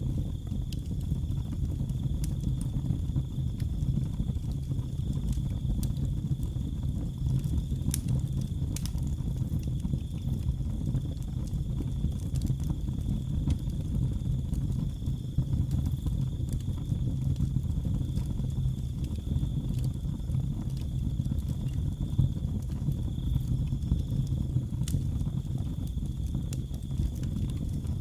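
Wood fire burning in a fireplace: a low rumble with a few sharp crackles of the logs, under a steady high cricket trill.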